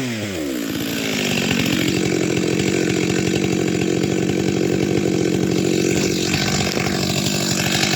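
Two-stroke chainsaw running at high revs, cutting into wood for firewood. The revs climb about a second in and then hold steady.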